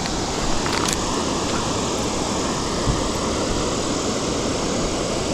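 Steady rushing of a waterfall, an even unbroken roar of falling water, with a couple of faint clicks about a second in.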